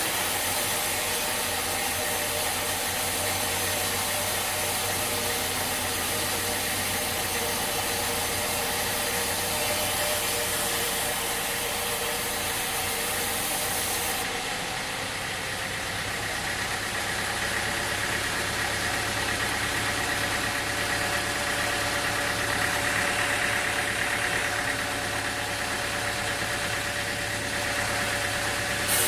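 Sawmill machinery running steadily with a continuous engine-like hum. About halfway through the sound changes abruptly and loses its highest hiss.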